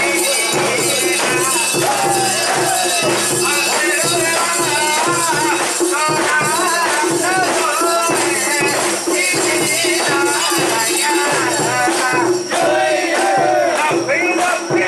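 Japanese festival music and many voices around a mikoshi being carried into a shrine, with a constant shaking, jingling rattle.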